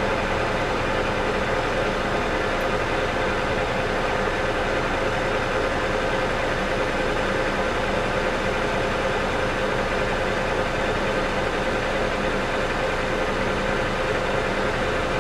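South Bend 14-1/2 lathe running steadily under power, taking a turning pass on a forged steel crossfeed shaft: an even machine hum with a constant whine.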